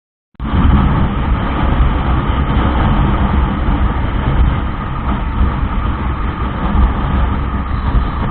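Motorcycle on the move: a steady, loud low rumble of engine and wind noise that cuts in abruptly less than half a second in.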